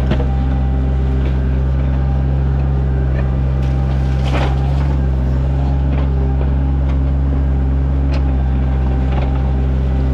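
Sany mini excavator's diesel engine running steadily while digging a ditch, with a few brief knocks and a longer noisy scrape about four seconds in.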